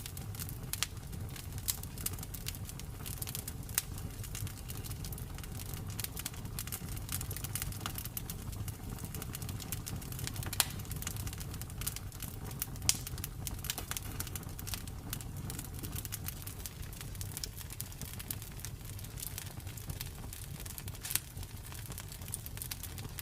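Campfire crackling: a dense, irregular run of sharp pops and snaps from burning wood over a low steady rumble of the flames, with a few louder pops scattered through.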